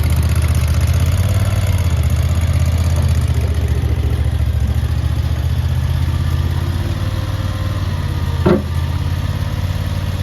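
CRT23 skid steer loader's engine running steadily at idle, with one short knock about eight and a half seconds in.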